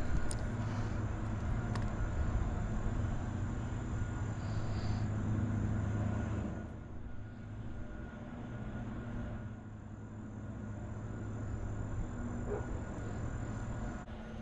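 A steady low engine drone, which eases down about six and a half seconds in.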